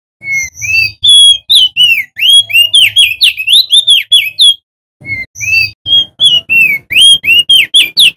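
Male crested white-eye (opior jambul) singing loud, fast phrases of clear whistled notes, each note sweeping up or down, about four notes a second. There is a brief pause about five seconds in before the song starts again.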